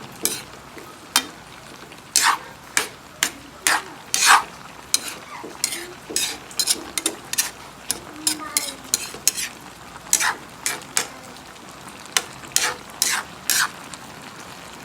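Chopsuey vegetables cooking in a pan while being stirred: a cooking utensil scrapes and knocks against the pan in quick, irregular strokes over a steady sizzle.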